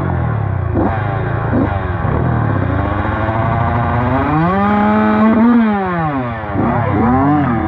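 Kawasaki KLX140 dirt bike engine revving up and down under riding. There are two quick throttle blips in the first two seconds, then a longer climb in pitch from about four seconds in that falls away near six seconds, and another short rev near the end.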